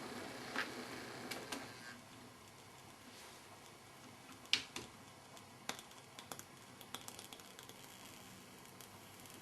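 Model railway locomotive running on the track, its wheels clicking over the rail joints about twice a second; the clicks grow quieter after about two seconds and turn sparse and irregular.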